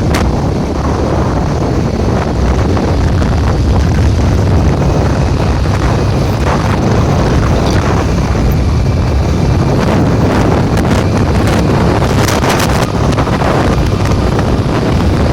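Loud wind buffeting the microphone, a steady low rumble with scattered knocks and crackles.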